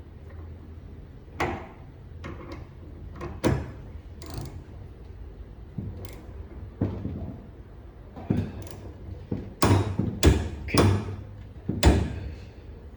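Irregular metallic clicks and clanks from hand tools and the injector's nozzle cap being handled and fitted for tightening. Several louder knocks come close together near the end.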